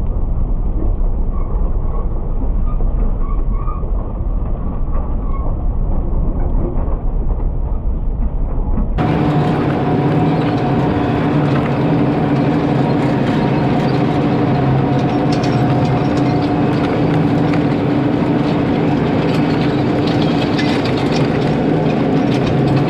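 Case IH Steiger 9370 four-wheel-drive tractor's diesel engine running steadily under load while pulling a DMI Tigermate field cultivator. About nine seconds in, the sound changes abruptly from a muffled rumble to a clearer, steady engine drone with several held tones.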